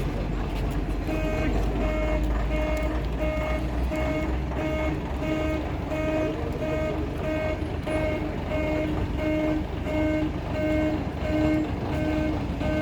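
A bus's reversing alarm beeping steadily, about one and a half beeps a second, starting about a second in, over the low rumble of its diesel engine as it backs out of its stand.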